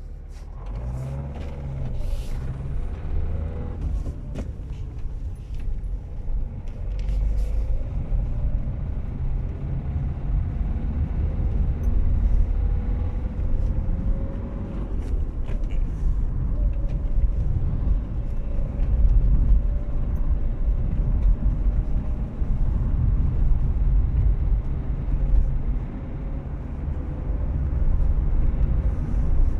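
Car in motion: a steady low rumble that grows louder over the first several seconds, with a few sharp knocks, mostly early on. The knock is one the owner cannot identify.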